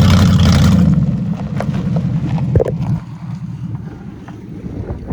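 Ford Crown Victoria's 4.6 L V8 pulling hard under throttle with a loud exhaust, its catalytic converters cut out, then easing off and quieting about three seconds in.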